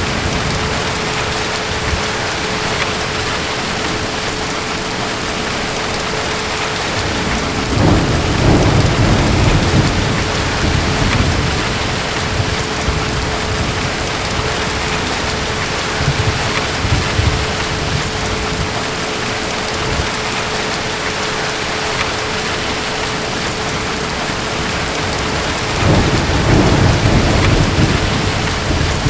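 Steady heavy rain with distant thunder rumbling low, twice: about eight seconds in and again near the end. A faint steady hum sits underneath.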